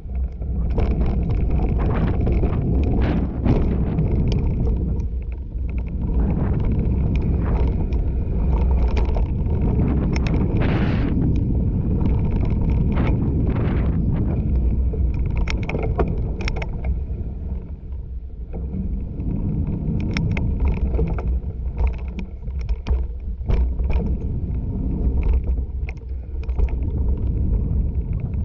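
Mountain bike ridden over bumpy dirt trail. The tyres rumble, the bike gives frequent rattles and knocks over roots and bumps, and wind buffets the microphone.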